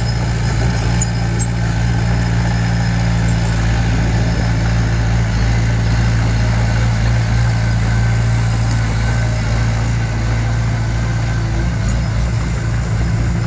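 Diesel engine of heavy construction equipment running steadily at an even speed, with a low, constant note.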